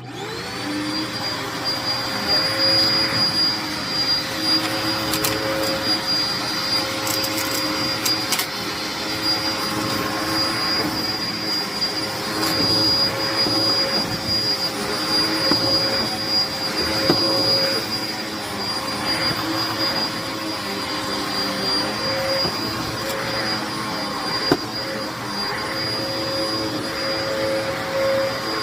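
Hoover vacuum cleaner switched on, its motor spinning up at once to a steady whine and running on, with a few crackles from debris a few seconds in. The vacuum is clogged.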